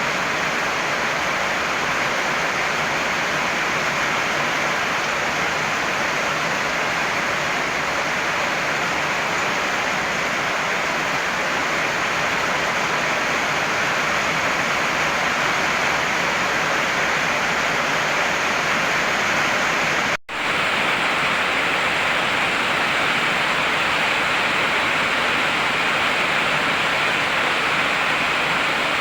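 Heavy rain pouring steadily, an even dense hiss. About two-thirds of the way through it cuts out for a split second, then resumes unchanged.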